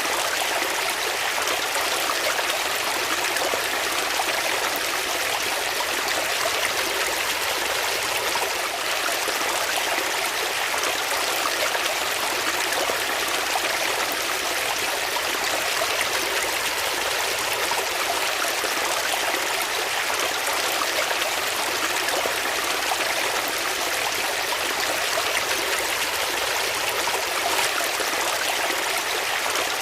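Water flowing steadily in a stream, a constant rushing and trickling with no change.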